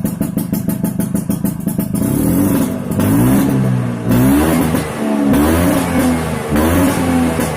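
Two-stroke Vespa PTS scooter engine through a DRT Racing 'udang' racing exhaust, running with a fast even pulse. About two seconds in it starts being revved repeatedly, the pitch rising and falling with each blip of the throttle.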